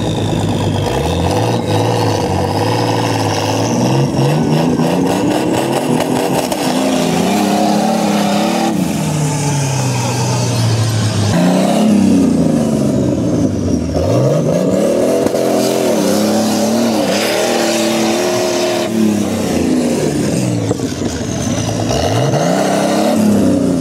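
Off-road trial special's engine revving hard and dropping back again and again as it claws up a mud bank, with several sharp rises in pitch.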